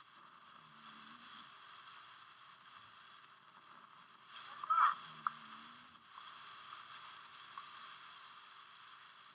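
Faint, indistinct voices over a steady hiss, with a brief louder sound about five seconds in.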